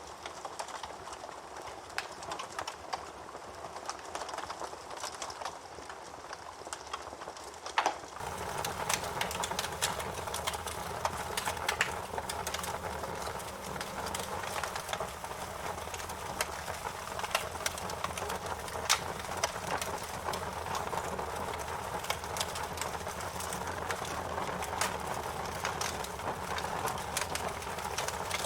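Campfire crackling, with sharp irregular pops over a steady hiss and rustle. About eight seconds in the fire grows louder and fuller, and the pops come more often.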